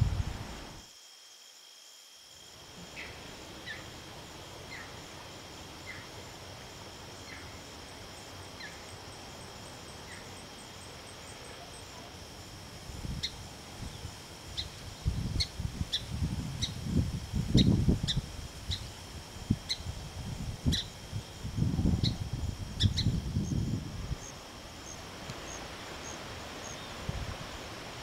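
Outdoor ambience of a bird chirping over and over in short high notes, about one a second at first and then quicker and more regular. In the middle stretch, low gusts of wind buffet the microphone, louder than the bird. There is a brief silent gap about a second in.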